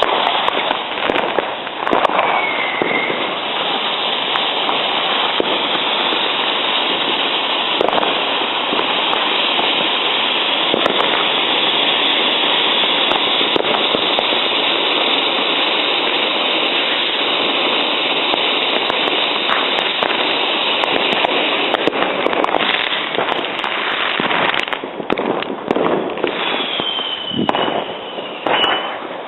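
New Year's Eve fireworks and firecrackers going off all around: a dense, continuous crackle of countless bangs that thins into separate bangs near the end. Two short falling whistles cut through, one a couple of seconds in and one near the end.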